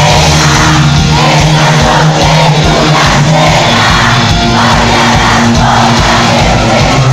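Live cuarteto band playing with a steady beat, with the crowd singing and shouting along.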